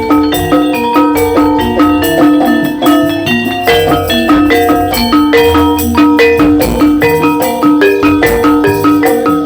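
Javanese gamelan music for a Jaranan Dor dance: bronze mallet instruments play a quick, steady run of struck, ringing notes over low drum beats.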